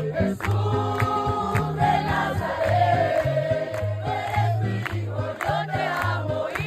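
A group of voices singing a Spanish-language Pentecostal worship chorus, backed by a stepping bass line and a steady percussion beat.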